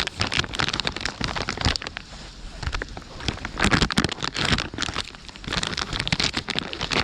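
Rain falling, with many irregular close taps and crackles throughout.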